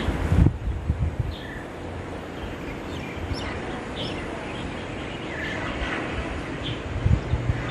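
Small wild birds giving short, scattered chirps over steady outdoor background noise. Loud low thumps come at the start and again near the end.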